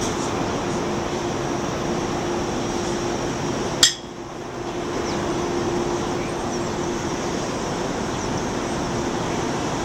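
Steady rumble and hiss of subway station ambience with a constant low hum. A single sharp click comes about four seconds in, and the sound drops briefly after it.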